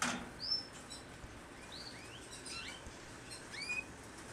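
Caged Crested Stafford canaries giving short, scattered rising chirps, several notes overlapping at times, with a sharp click right at the start.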